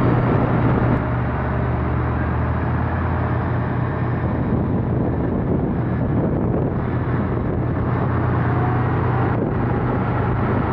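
A train running steadily, with a deep engine hum under rolling noise; a faint rising whine comes in near the end.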